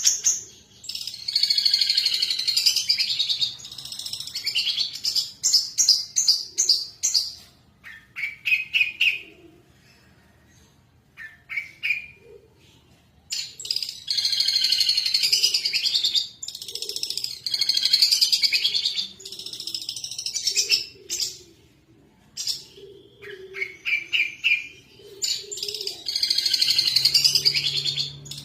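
Long-tailed shrike singing loudly: long bouts of rapid, scratchy chattering song alternate with short runs of repeated clipped notes, with brief pauses between bouts.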